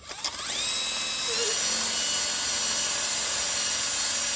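Electric drill starting up, its whine rising in pitch over the first second, then running steadily at full speed while it bores a hole into a coconut shell.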